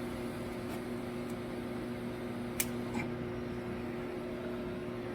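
Steady electrical hum from mains-powered equipment, with one sharp click about two and a half seconds in.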